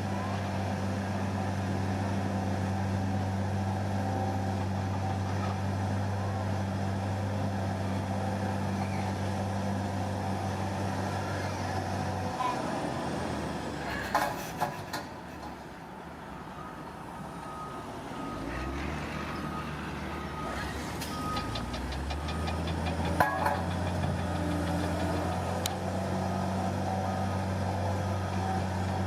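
Heavy diesel engine of a Komatsu D41P bulldozer running steadily. About halfway it drops off, with a few sharp clanks, then builds back up in pitch and settles into steady running again. A reversing alarm beeps repeatedly for several seconds in the later part.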